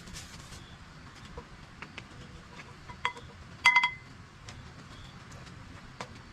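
Hard objects clinking: a short clink about three seconds in, then a louder, ringing cluster of clinks half a second later, over a faint background with scattered light ticks.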